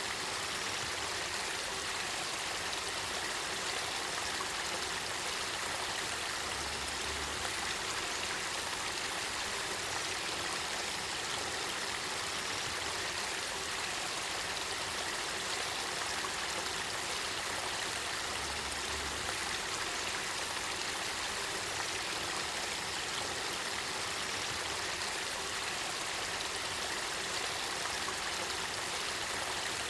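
Clear spring-fed river water flowing and burbling in a steady, even rush.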